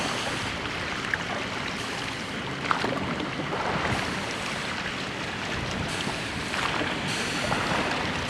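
Steady rush of water and wind around a rowed church boat under way, with a few faint knocks.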